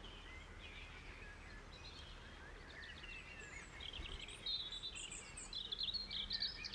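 Birds chirping in the woods, many short twittering calls, sparse at first and growing busier and louder in the second half, over a faint low hum.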